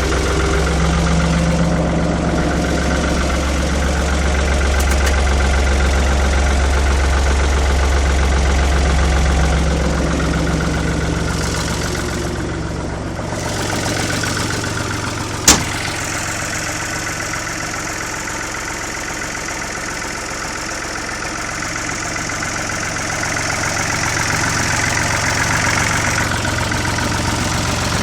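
A U-445 tractor's diesel engine idling steadily. Its low note shifts about ten seconds in, and there is a single sharp click about halfway through.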